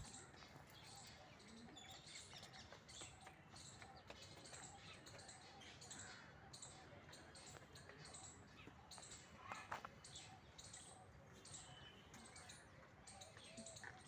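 Faint chirping of small birds in the trees, many short high calls scattered throughout, with a brief bump about ten seconds in.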